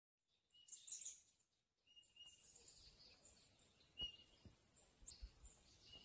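Faint wild birds chirping: short, high calls scattered over quiet outdoor ambience, with a soft knock about four seconds in.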